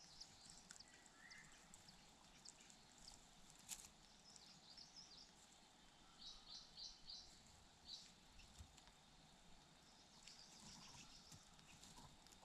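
Faint, high, short bird chirps in small clusters, including a run of four quick chirps just past the middle, over a quiet background hiss, with a single sharp click about four seconds in.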